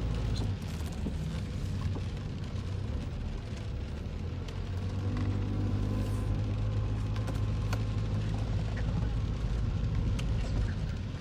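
A car on the move: a steady low engine and road rumble, with scattered light ticks.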